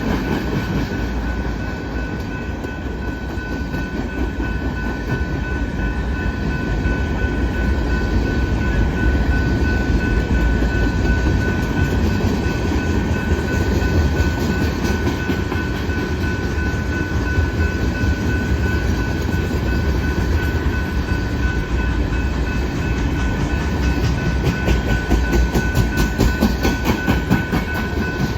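Freight train cars rolling past slowly, with a steady rumble, wheels clicking over the rail joints more strongly near the end, and a steady high-pitched ringing tone.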